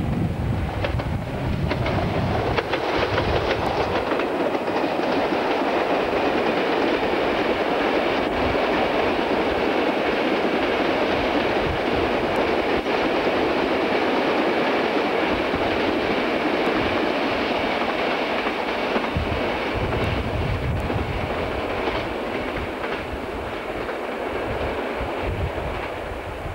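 Class 33 diesel locomotives hauling a ballast train pass close by, then the train of ballast wagons rolls past with a steady clatter of wheels over the rail joints, fading over the last few seconds as it draws away. Wind buffets the microphone at times.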